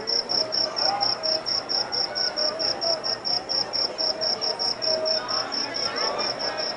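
A cricket chirping steadily, a high-pitched pulse repeating evenly at about five chirps a second.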